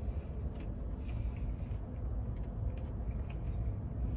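A steady low rumble, with a few faint soft clicks scattered through it.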